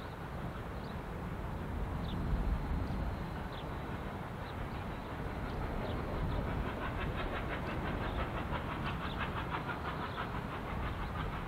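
A train running past with a steady low rumble. About halfway through, a fast, even clicking rhythm joins in and grows louder.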